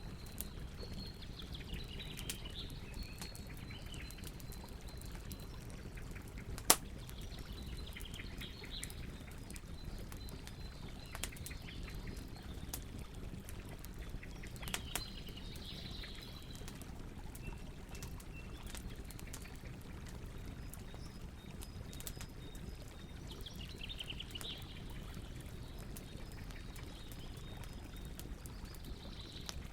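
Campfire crackling, with many small snaps and one sharp pop about seven seconds in, over a low steady rumble of the burning fire. Birds sing in the background at intervals.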